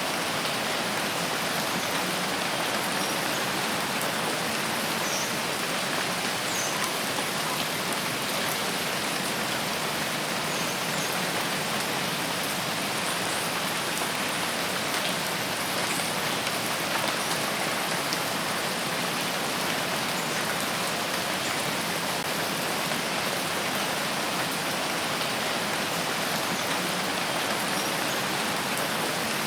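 Steady rain falling on foliage, an even hiss with a few faint drop ticks, unchanging in level.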